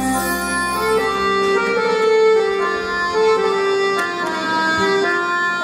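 Live instrumental music from a traditional Arabic ensemble. A melodic line moves from note to note over sustained tones.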